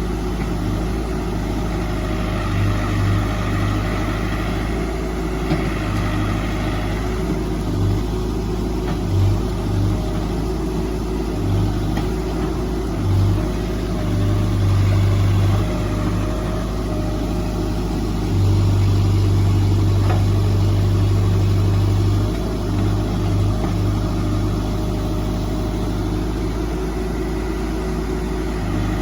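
Diesel engine of a working earthmoving machine running steadily. Its low hum swells and drops again and again as the load comes on and off, with the longest hard pull a little past the middle.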